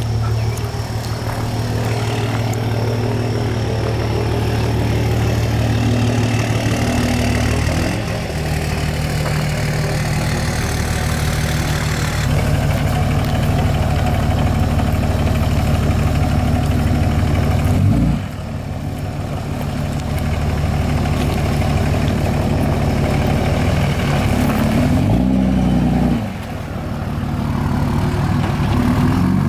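Truck engine running loud and steady at a held speed. Its pitch shifts several times, with two short dips in speed, the second near the end.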